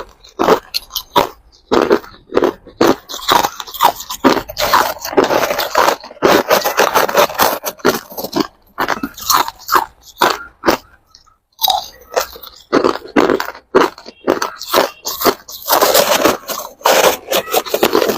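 Hard ice being bitten and chewed up close, a rapid run of loud, irregular crunches, with a short pause a little past the middle.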